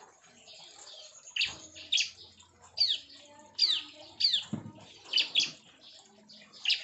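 Bar-winged prinias (ciblek) calling in an aviary: short, sharp high chirps recurring every second or so, with a few quick falling whistles around the middle. A soft low thump comes about four and a half seconds in.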